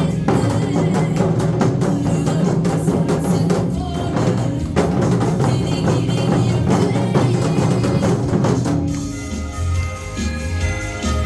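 Janggu drumming played along with a recorded music backing track. About nine seconds in the drumming thins out, leaving mainly the backing track's melody.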